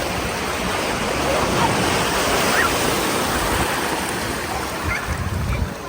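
Sea water washing at the shoreline: a steady wash of surf that swells a little in the middle, with faint voices in the distance.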